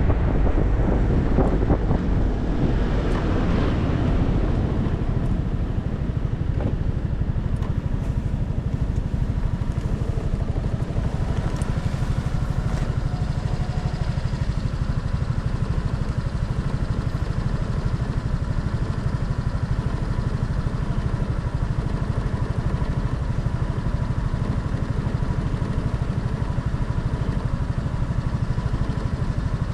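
Motorcycle engine with wind rush on the microphone that dies away over the first five or six seconds as the bike slows, then the engine idling steadily.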